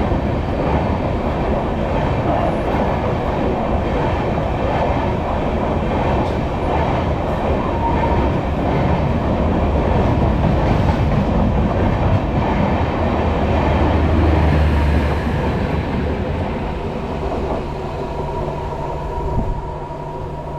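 A train passing, with the steady rumble and rattle of its wheels on the rails, easing off slightly near the end.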